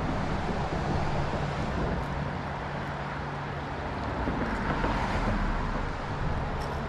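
Road traffic on a highway bridge: a steady hiss of tyres on wet pavement, with an engine hum in the first half giving way to a deeper rumble from about four seconds in.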